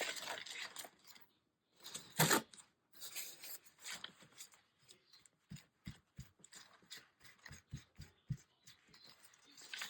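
Paper and craft materials being handled on a work table: rustling, with two louder rustles near the start, then a string of small clicks and light taps.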